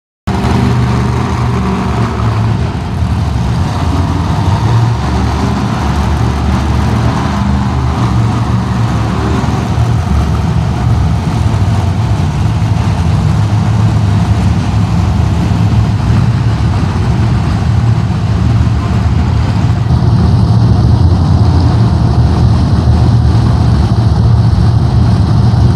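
Monster truck engines running loud and steady, a deep continuous drone.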